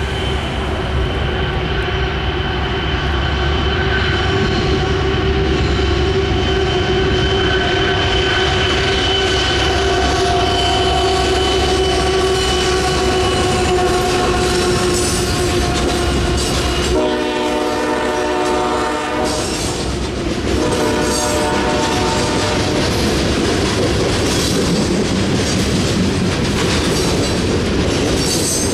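Union Pacific diesel freight locomotive's air horn holding a long steady chord over a deep engine rumble, then two shorter blasts in a different chord. After that, the rumble and rail clatter of coal hopper cars rolling past.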